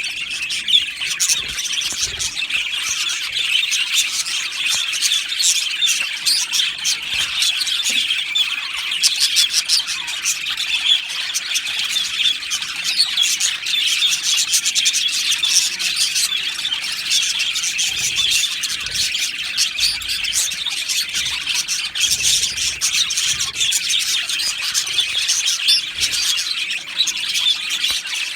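A colony of budgerigars chirping, warbling and squawking together in a dense, unbroken chatter.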